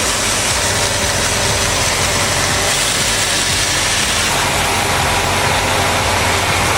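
Heavy machinery engine running steadily under load, with a constant low drone.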